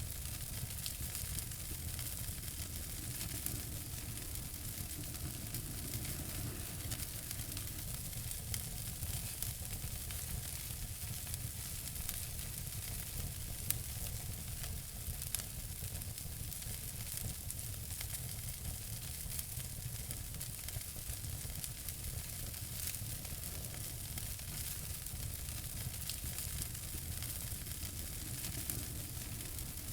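Wood fire in a fireplace crackling: a steady hiss scattered with many small pops over a low rumble, with two sharper snaps near the middle.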